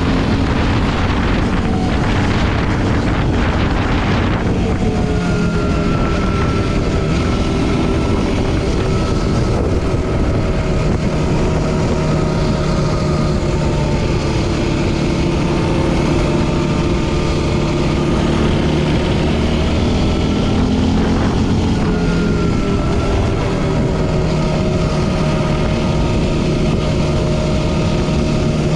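Yamaha Raptor 700R quad's single-cylinder four-stroke engine running under way. Its pitch rises and falls with the throttle and drops away about four seconds in.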